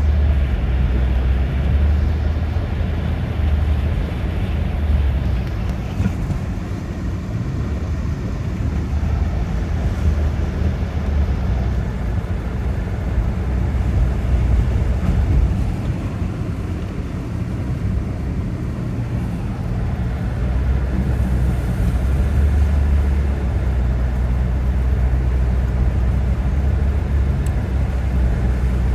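2003 Toyota Avalon driving on a snowy road on Bridgestone Blizzak WS90 winter tyres: a steady low rumble of tyres and engine that slowly swells and eases.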